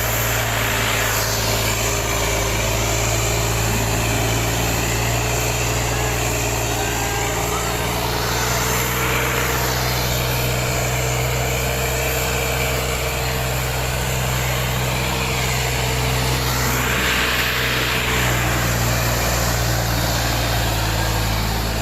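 Sonalika 35 tractor's diesel engine running steadily under heavy load while pulling two harrows at full speed, with a broad hiss that swells three times.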